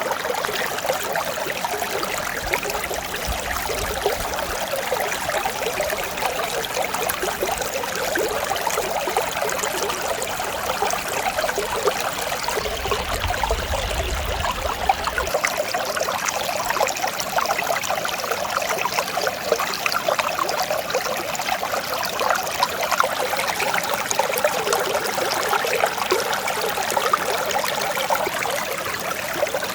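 Mountain stream flowing steadily over rocks: a continuous, even rush and babble of clear running water.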